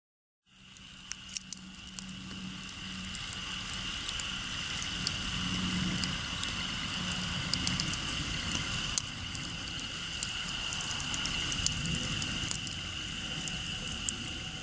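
Wood campfire burning, crackling with frequent sharp pops over a steady hiss. A steady high-pitched tone runs underneath. The sound fades in during the first half second.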